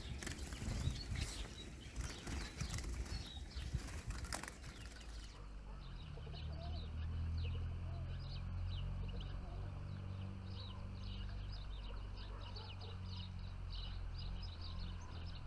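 Rustling and fluttering noise for about five seconds. It cuts off suddenly, giving way to a low steady rumble with many short, high chirps and twitters of small songbirds.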